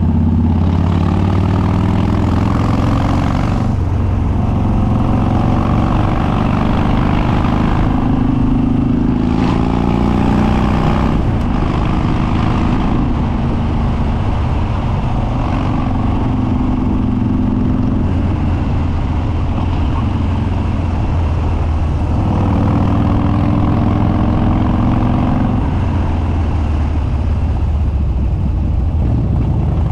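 Harley-Davidson Dyna Street Bob's Twin Cam V-twin, on Stage 2 cams with an unbaffled upswept dual exhaust, pulling hard on the open road. Engine pitch climbs and drops back over and over as the bike accelerates, shifts and rolls off through the gears.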